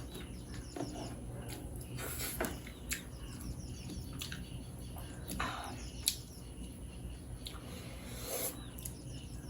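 A person eating close to the microphone: chewing and mouth sounds with a few light clicks and short rustles scattered through.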